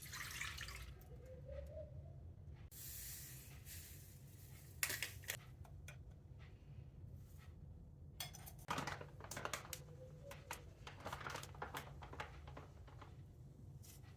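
Kitchen handling sounds: scattered clicks and knocks of dishes or utensils, with a short hiss of water about three seconds in, over a low steady hum.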